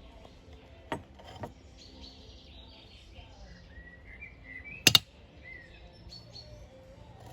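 A few sharp knocks: two light ones in the first second and a half, then one loud knock with a brief ring about five seconds in. Bird chirps can be heard in the background.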